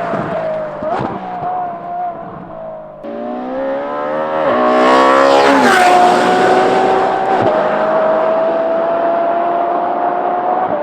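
Ferrari F12 Berlinetta's V12 through a free-flow X-pipe exhaust, accelerating hard. About three seconds in it opens up and the pitch climbs sharply. Near the middle there is a quick upshift drop, after which it keeps pulling with a high, steady rising note.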